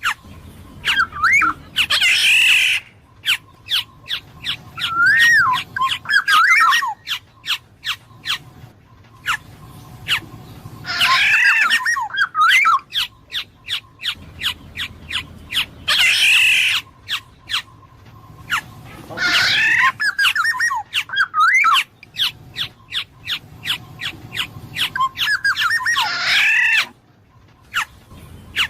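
Black-naped oriole calling: clear whistled notes that slide up and down, broken by several harsh, nasal squawks, with runs of sharp clicks in between.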